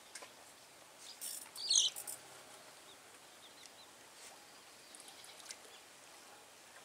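A bird gives a short burst of high chirps about a second and a half in, the loudest sound here, over quiet outdoor background noise. A few faint ticks come later.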